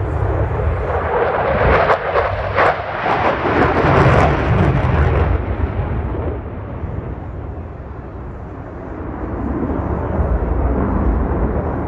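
F-35A Lightning's single Pratt & Whitney F135 turbofan making loud jet noise with sharp crackling as it passes, loudest about four seconds in. It fades for a few seconds, then builds again near the end.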